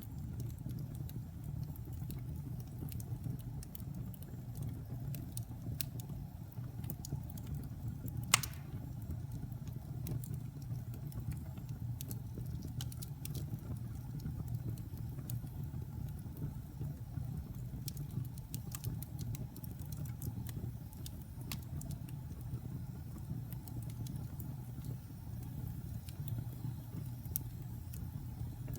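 Fire burning in a fireplace: a steady low rumble of flames with scattered small crackles, and one sharper pop about eight seconds in.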